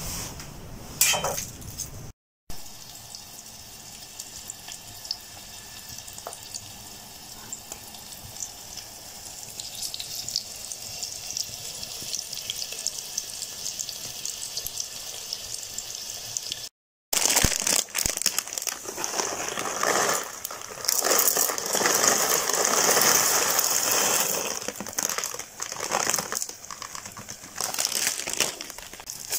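Onions sizzling in a camping pot over a small wood-burning camp stove, a steady hiss with fine crackles. After a cut about two-thirds of the way through, the frying is louder and rougher.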